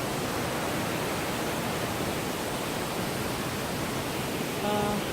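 Mountain stream water rushing steadily over rocks, an even, unbroken hiss.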